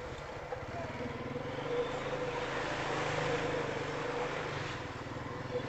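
Four-wheeler (ATV) engine running steadily while riding, a constant drone with no marked changes in pitch.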